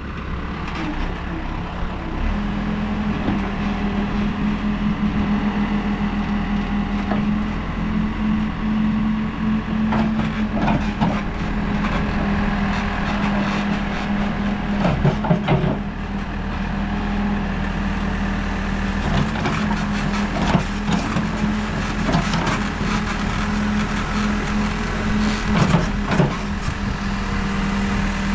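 New Holland backhoe loader's diesel engine running steadily at raised revs while the bucket digs, picking up pitch about two seconds in. Scattered knocks and scrapes of the bucket in clay and stones sound over it.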